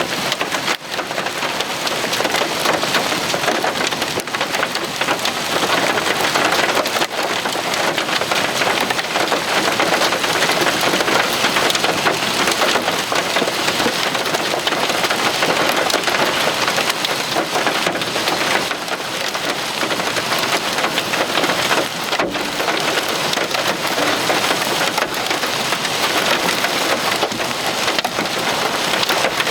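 Heavy wind-driven rain and hail beating down during a severe thunderstorm: a dense, steady hiss of falling water with many sharp clicks of individual hailstones striking hard surfaces.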